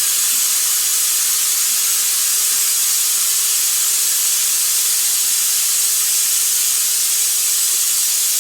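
Steady hiss of compressed air rushing through a pneumatic vacuum brake bleeder, with the air compressor running underneath as a faint steady hum.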